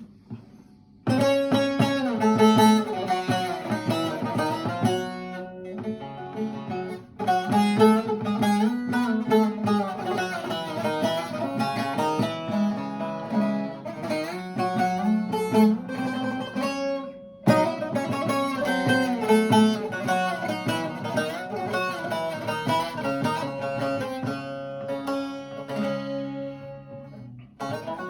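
A plucked string instrument playing a slow opening (açış) in makam Nihavent, in phrases separated by short pauses.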